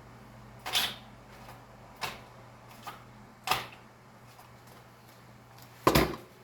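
Handling of a cordless impact driver fitted with a stainless hook holder: a few sharp clacks and knocks at irregular intervals, the loudest a double knock near the end.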